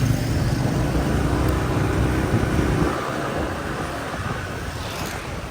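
Motor traffic heard from a moving motorbike: a loud low rumble of engines and road noise that drops off about three seconds in, leaving a quieter steady hum of traffic.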